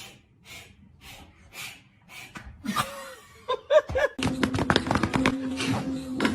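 A person laughing in soft breathy bursts, with a few short voiced sounds. About four seconds in, a louder steady hum starts, with a run of clicks and knocks.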